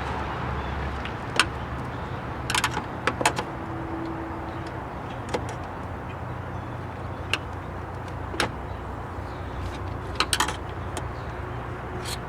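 Scattered sharp clicks and knocks of plastic trim pieces being handled and pressed into place, some in quick clusters, over a steady low rumble of traffic and wind noise.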